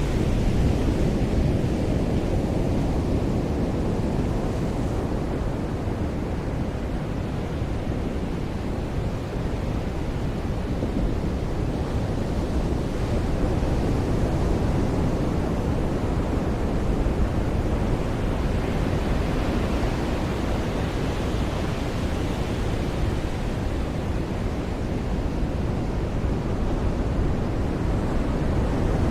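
Ocean surf breaking and washing up a beach: a continuous, even rush of waves that swells slightly about two-thirds of the way in.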